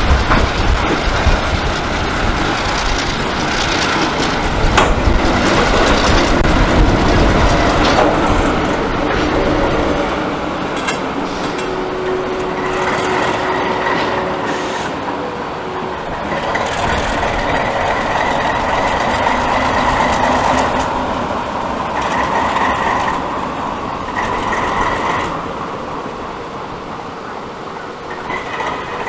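Freight train rolling through a grade crossing: steady rumble and clatter of boxcar wheels over the rail joints, then diesel locomotives passing. From about halfway on there are on-and-off high-pitched wheel squeals.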